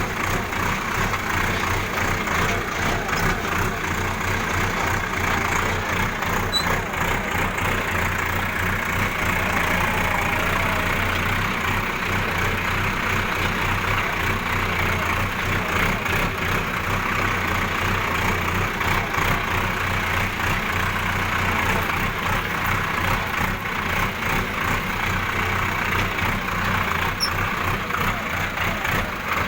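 A heavy vehicle's engine running steadily, with a low, even hum.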